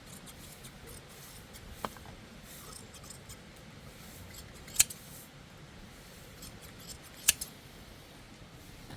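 Shears clipping a sheep's wool: faint repeated snips, with a few sharp clicks of the blades, the loudest about five and seven seconds in.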